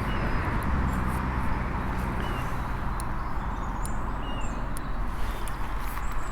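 Outdoor waterside background: a steady hiss with a low hum that fades about two seconds in, and a few short, high bird chirps. Several faint clicks are scattered through it.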